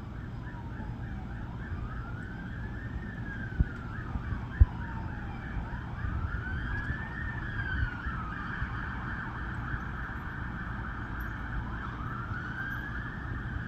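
Emergency-vehicle sirens wailing, rising and falling in slow cycles of about four seconds, with a faster rapid warble under them through the first half. Two sharp knocks come around the middle.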